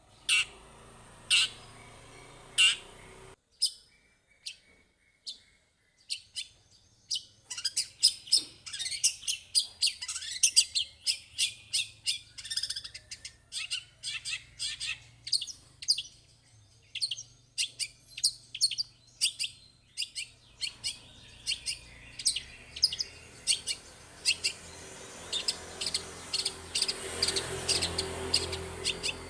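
Long-tailed shrike (cendet) singing a lively run of short, sharp chirps, several a second, with a brief lull a few seconds in before the notes come thick and fast again.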